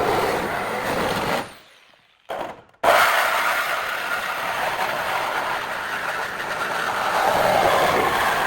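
A power tool running with a steady noise. It dies away about a second and a half in, gives a short burst, then starts again abruptly just before three seconds in and keeps running.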